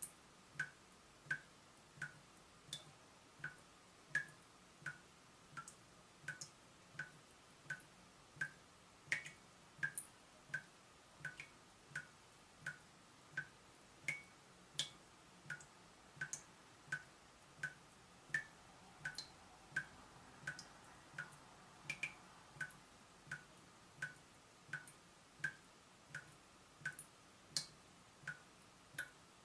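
Water dripping from a leaking tap: a steady, even drip, about three drops every two seconds, each a short tick with a brief ringing note.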